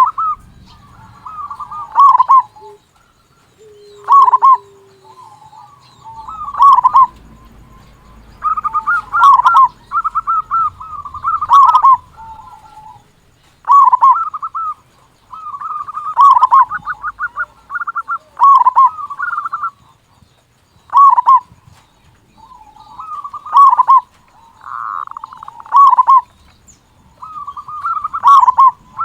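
Local zebra dove (perkutut) singing steadily, loud cooing phrases repeating about every two seconds, each a rolling warble that ends in strong low notes.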